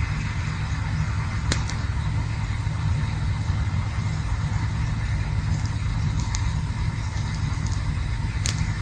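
Campfire burning: a steady low rumble with a few sharp crackles, the loudest about one and a half seconds in.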